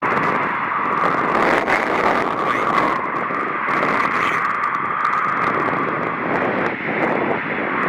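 Cockpit background noise from an airliner's cockpit voice recorder: a steady, muffled rushing hiss of aircraft noise, with no high treble, as on the recorder's narrow-band tape.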